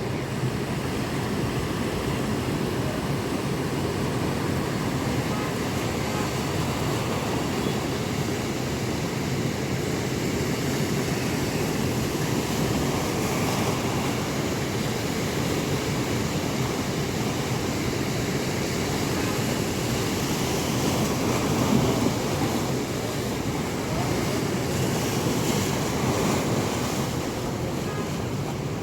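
Ocean waves breaking and washing in a strong monsoon wind, a steady roar of surf that swells and eases as the waves come in, loudest about two-thirds of the way through. Wind buffets the microphone.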